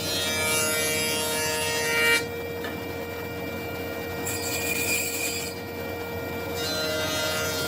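A tool working wood, with rubbing and rasping, over a steady machine hum. The sound changes abruptly several times, about two seconds in and again near the middle and toward the end.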